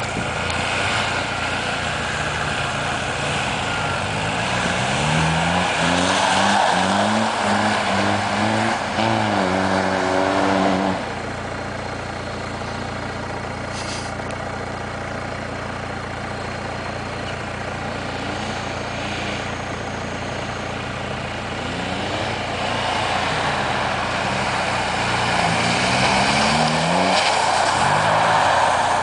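Engine of a converted Suzuki Vitara 4x4 revving hard in repeated rising and falling surges as it is driven around on snow. It revs loudly for several seconds, drops to a quieter steady run in the middle, then revs up hard again near the end.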